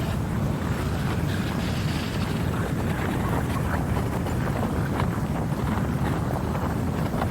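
Steady winter wind blowing, a continuous low rushing, with faint scattered ticks.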